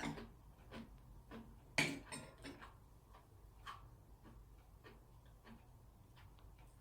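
Close-miked chewing of a crunchy strawberry Pepero biscuit stick: a sharp crunch about two seconds in, then softer crunches roughly twice a second.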